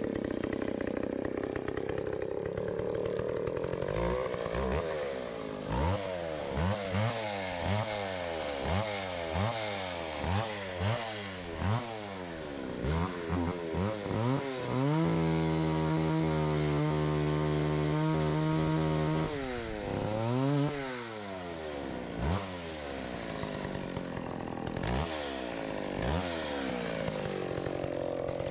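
A large gas chainsaw running and being revved in repeated short throttle blips, about one a second, then held at high speed for about four seconds before dropping back to idle with a couple more blips.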